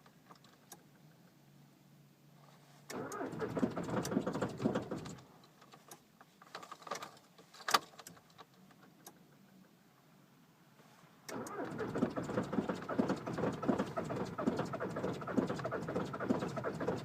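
Volkswagen Jetta Mk5 TDI turbodiesel being started cold at −25 °C: a rattly burst of about two seconds a few seconds in, then a longer rattly, uneven sound from about eleven seconds in that carries on. A few sharp clicks fall in the quiet gaps.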